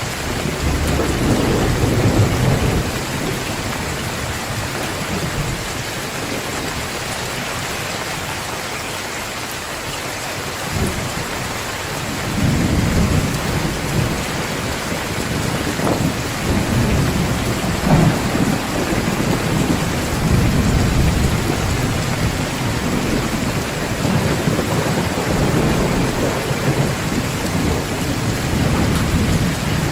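Heavy rain pouring down steadily, with rolling thunder rumbling low underneath. The rumble eases off for a while and swells back up about twelve seconds in.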